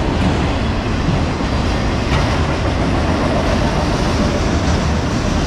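Autorack freight cars rolling slowly past, a steady rumble of steel wheels on the rails.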